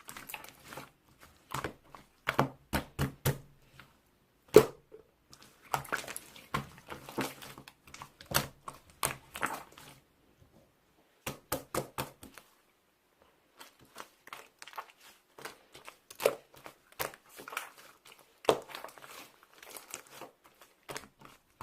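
Mixed slime being squished and stretched by hand: irregular sticky pops and crackles, with two short pauses around the middle.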